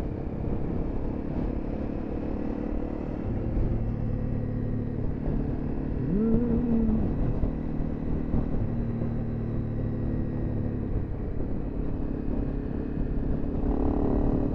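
A car running, with a steady low engine and road hum. A brief rising and falling tone is heard about six seconds in.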